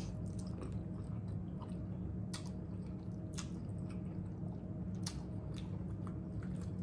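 A person chewing a mouthful of soft ramen noodles, with wet mouth sounds and a few sharp clicks, over a steady low hum.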